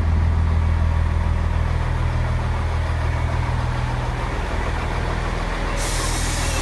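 Diesel multiple unit train idling at the platform, its engine a steady low hum that changes note about four seconds in. A sudden hiss starts near the end.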